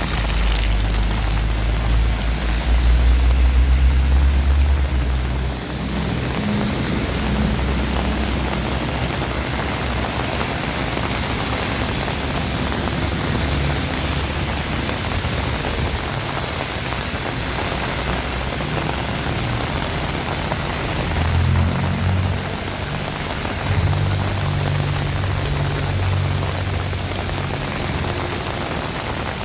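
Heavy rain falling steadily in a dense, even hiss. A low rumble underlies it for the first few seconds and again near the end.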